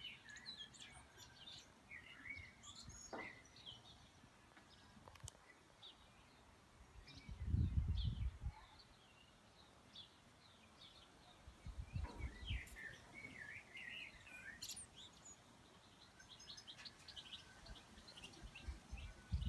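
Songbirds chirping and calling off and on, with a few spells of low rumble, the loudest about eight seconds in.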